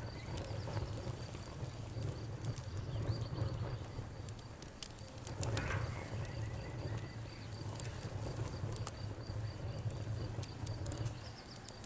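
Wood campfire crackling, with scattered sharp pops over a steady low rumble. A faint, high, evenly pulsing cricket chirp runs underneath.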